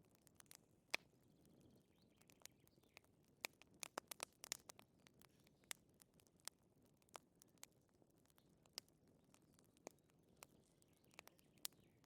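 Wood fire crackling softly: irregular small pops and snaps over a faint low hiss, with a brief flurry of pops about four seconds in.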